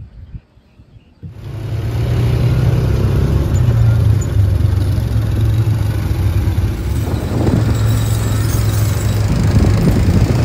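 UTV engine running steadily as the vehicle drives, with a low hum and road noise; it comes in suddenly about a second in, after a quieter moment.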